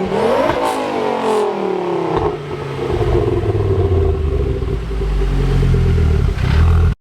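Mk2 Ford Focus RS's turbocharged five-cylinder engine revving: the note rises in pitch, falls away, then from about two seconds in holds a steady lower drone with a strong rumble, and cuts off suddenly at the end.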